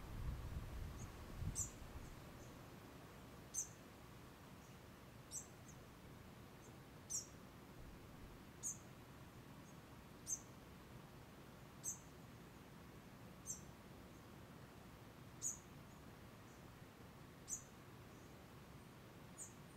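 A bird repeating a single short, high, thin call that falls in pitch, eleven times at an even pace of about one every two seconds, over a quiet background. A low rumble fills the first two seconds.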